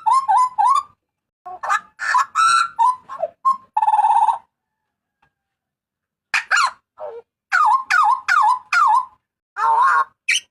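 Butcherbird giving loud calls in quick runs of short notes that bend up and down. The calls break off for about two seconds midway, then start again.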